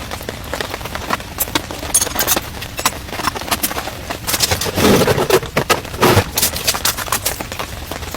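Heavy rain pelting down, with many separate drops striking close by in a fast, irregular rattle over a steady hiss. Heavier thumps come about five seconds in and again a second later.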